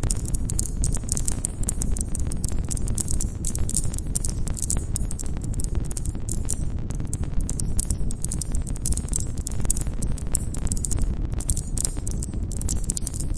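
Wood campfire crackling with a steady low rumble of flames and many sharp pops, over dense, fast, high-pitched chirping of crickets.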